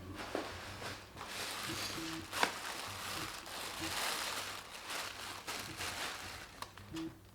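Rustling, crinkling handling noise, with a few sharp clicks, the loudest about two and a half seconds in.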